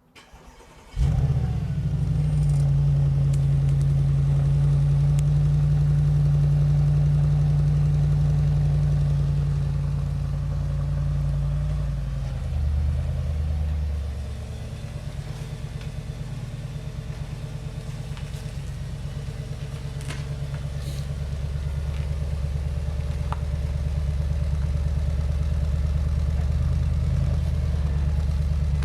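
Audi S5's 4.2-litre V8 on its stock exhaust starting up about a second in with a brief flare of revs. It then idles steadily at a raised idle, which drops to a lower, quieter idle a little under halfway through.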